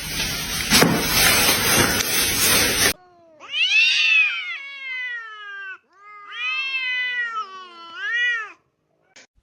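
A cat yowling: two long, drawn-out calls that rise and fall in pitch, starting about three seconds in and again about six seconds in. Before them there are a few seconds of loud rushing noise.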